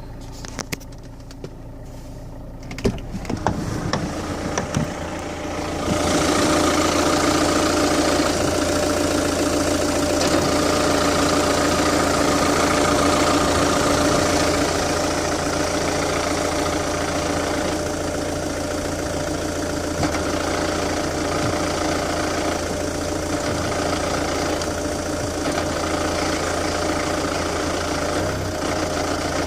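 Alfa Romeo 159's 1.9 JTDm diesel engine idling, on a car the owner says has been noisy since a new clutch and dual-mass flywheel were fitted. A few clicks and knocks come in the first few seconds, then about six seconds in the engine sound grows louder and runs steadily.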